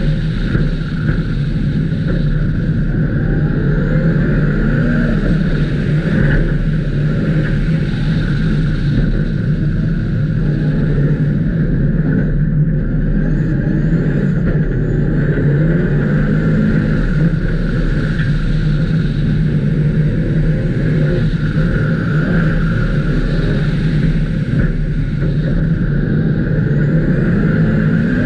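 Ice-racing car's engine running hard on an ice track, heard from on board. Its note eases as the car slows into a tight corner about halfway through, then builds again as it accelerates out.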